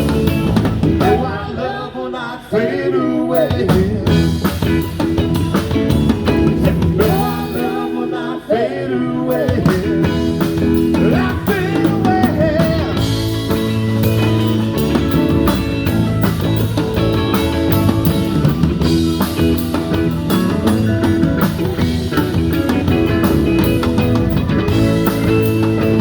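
A band playing blues-rock with a drum kit and a steady bass line. A wavering lead part comes over it in two stretches near the start and again about a third of the way in.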